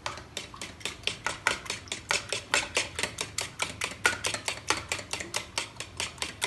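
Raw eggs being beaten in a bowl, the utensil clicking against the bowl in a steady, quick rhythm of about six strokes a second.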